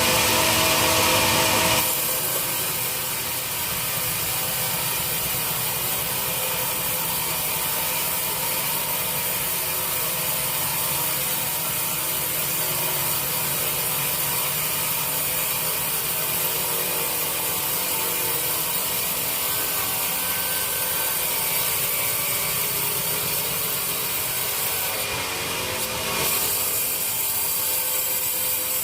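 Sawmill saw cutting through teak wood, a continuous mechanical sawing noise. It is louder for about the first two seconds, then runs steadily, with a brief change about three seconds before the end.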